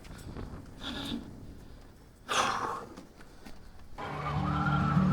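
A person breathing hard after exertion, with two heavy exhales about a second apart. Background music fades in near the end.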